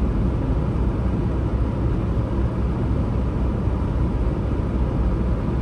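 Steady low rumble of a Peterbilt 579 semi truck's diesel engine, even and unchanging throughout.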